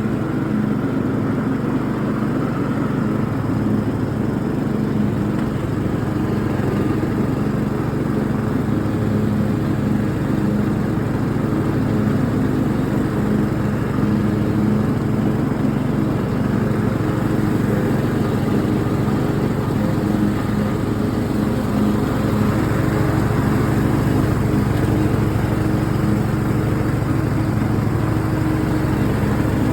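T100 riding lawn mower engine running steadily under mowing, a constant low engine hum.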